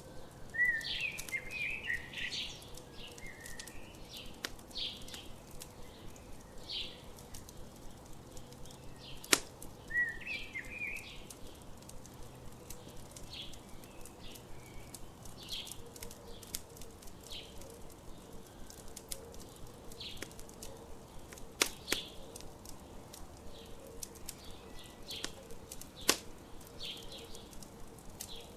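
Campfire crackling with many small clicks and three loud sharp pops, over songbirds chirping: short repeated calls every second or so, with bursts of twittering near the start and again about ten seconds in.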